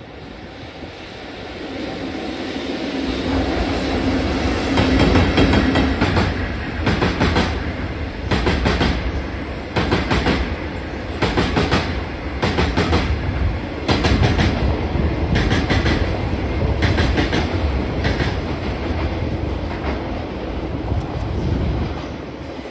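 EF65 electric locomotive hauling a train of Chiki flat wagons loaded with rails, passing through at speed. It builds up as it approaches, then the wheels clack over the rail joints in a regular beat through the middle, and the sound eases off near the end.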